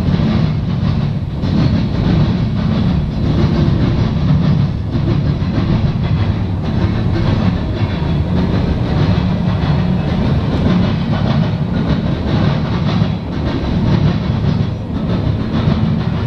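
Norfolk Southern freight train rolling past close by: a steady loud rumble of steel wheels on rail with repeated clicks running through it.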